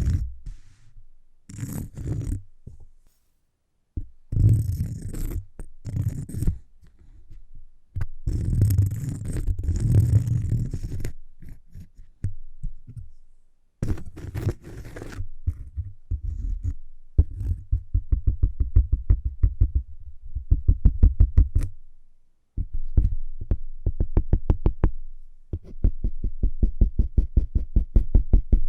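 Scratching on cork in short bursts of a second or two, changing about halfway through to rapid, evenly spaced tapping on the cork.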